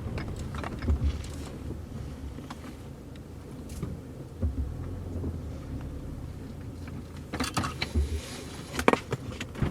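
Stopped car with its engine idling as a low steady hum, scattered small clicks over it, and a cluster of sharper knocks and thumps about three-quarters of the way through.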